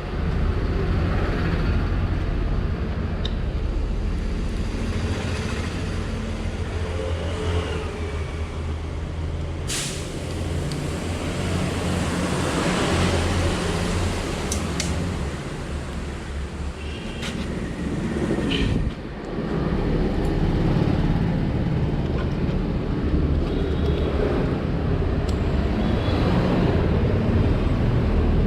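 Steady low rumble of outdoor background noise, traffic-like, with a few short light clicks.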